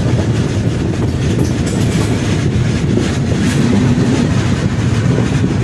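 Indian Railways express train running on the track: a steady loud rumble with the clatter of wheels over rail joints.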